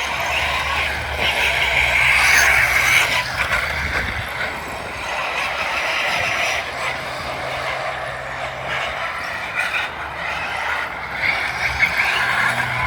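Radio-controlled car's electric motor and gear drivetrain whining as it drives, the pitch rising and falling with the throttle.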